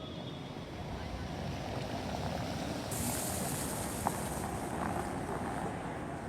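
Steady road traffic noise with wind on the microphone. It grows brighter and a little louder about three seconds in, with a short sharp click about a second later.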